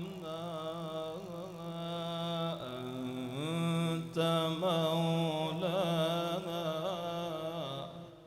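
A reciter's voice in melodic Quran recitation (tajweed), holding long ornamented notes with a wavering pitch that climbs about three seconds in, then dying away just before the end.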